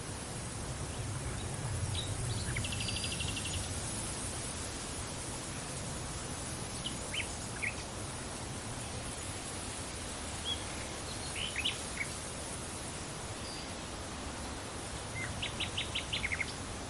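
Steady wind noise with a low rumble swelling early on, and small birds chirping now and then: a short rapid trill about three seconds in, a few single chirps in the middle, and a quick run of chirps near the end.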